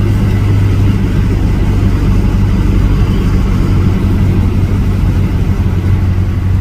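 Steady low engine and road drone of a vehicle driving at an even speed, heard from inside the cabin.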